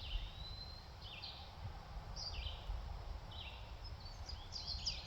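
Songbirds chirping in spring woodland: short high chirps every half second or so, breaking into a quicker run of chirps near the end, over a low steady rumble of outdoor background noise.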